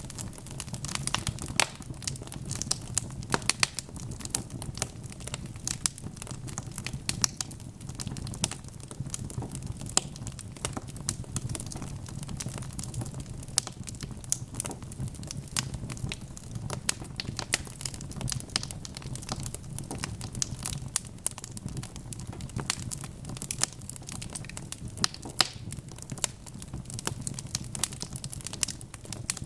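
Wood fire of burning logs crackling, with frequent sharp pops and snaps over a steady low rumble of the flames.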